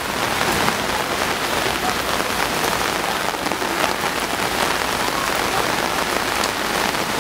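Heavy rain pouring steadily, a dense even hiss, with floodwater rushing through the street.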